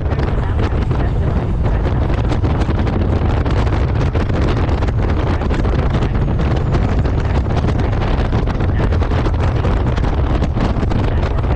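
Loud, steady wind buffeting on the microphone of a moving Honda Gold Wing motorcycle: a dense rumble that masks everything else.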